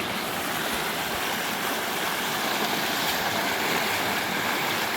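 River water flowing, a steady even rush with no let-up.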